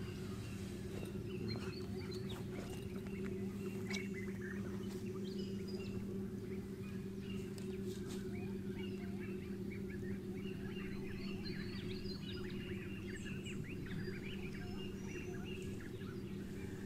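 Many birds chirping and calling, the calls growing denser in the second half, over a steady low hum.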